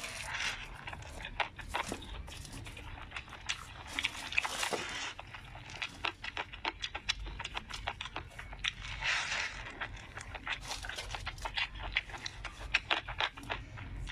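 Close-miked chewing and lip-smacking of a mouthful of dumpling: many quick wet clicks and soft crunches.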